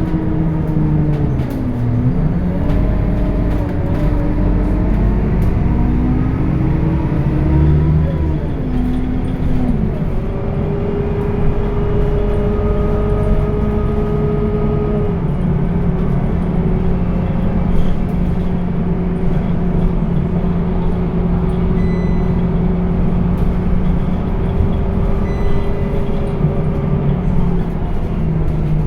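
Scania K230UB bus engine and ZF automatic gearbox under way. The engine note dips and climbs through the first eight seconds or so, drops at a gear change about ten seconds in, then holds a steady pitch with a small change around fifteen seconds.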